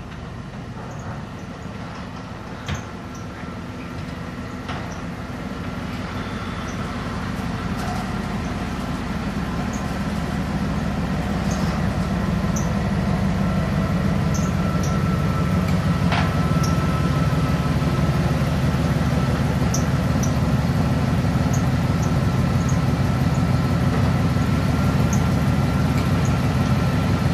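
A vehicle engine running steadily: a low rumble that grows gradually louder, with a faint steady whine above it and a few light clicks.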